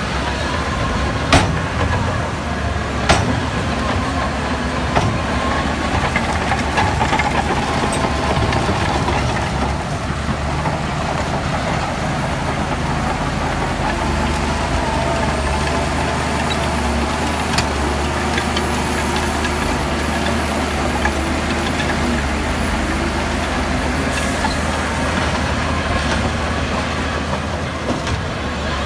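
Bulldozer working, its diesel engine running steadily under a wavering metallic squeal, with two sharp clanks in the first few seconds.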